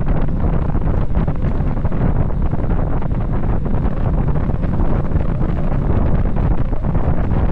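Wind buffeting the microphone of a camera on a bicycle descending at high speed: a loud, steady, low rumble of rushing air.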